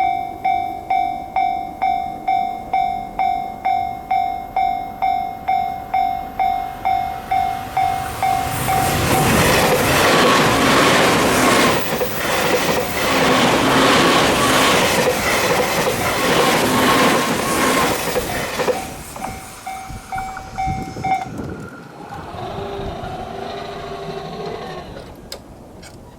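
Japanese level-crossing warning bell ringing in a steady pulse of about two strikes a second. About eight seconds in, a JR East E351 series limited express electric train passes at speed, its wheels clattering over the rail joints, and drowns the bell for about ten seconds. The bell is heard again briefly after the train and stops a little past the two-thirds mark.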